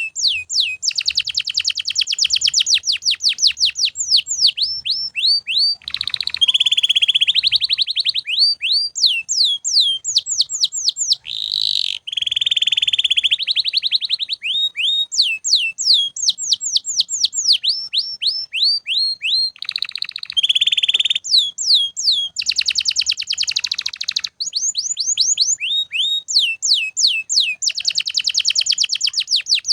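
Domestic canary singing without a break: long runs of rapidly repeated notes, each sweeping downward, alternating with a few steadier rolled passages.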